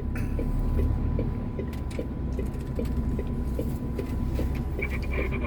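Truck's diesel engine idling, heard from inside the cab, with the hazard-light flasher clicking steadily over it.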